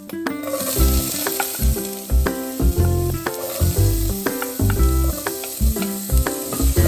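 Food frying in a hot pan, an even sizzle that starts just after the beginning, heard under background music with a steady beat.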